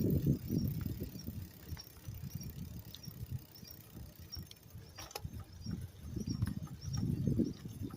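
Wind buffeting the microphone in low, uneven gusts while riding a bicycle, with scattered light clicks and rattles.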